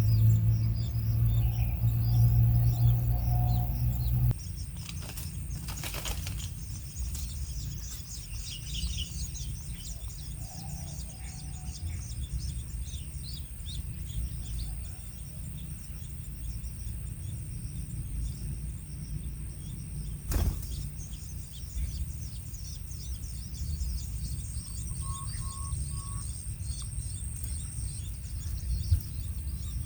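Small birds chirping outdoors, many short high calls over a low rumble of background noise, with a steady high-pitched insect drone. A loud low hum fills the first four seconds and cuts off suddenly; a sharp click comes about twenty seconds in.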